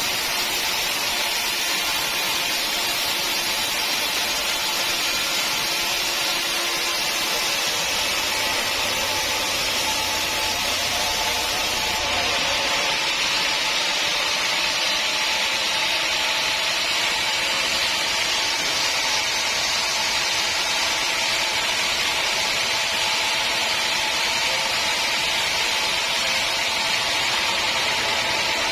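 Sawmill saw running steadily through a teak log, a loud continuous mechanical noise with a faint steady hum underneath that holds without a break.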